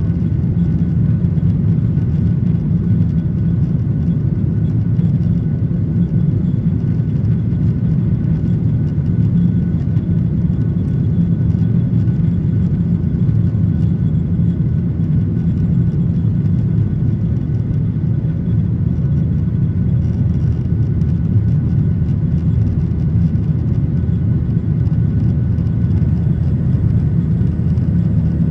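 Boeing 737-800 running steadily, heard from inside the passenger cabin as an even low rumble with a few faint steady tones above it.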